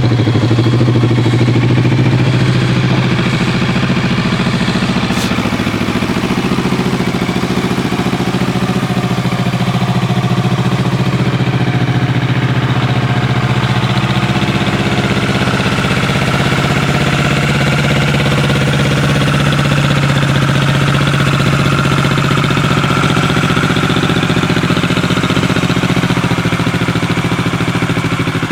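Kawasaki ER-4n's 650 cc parallel-twin engine idling steadily.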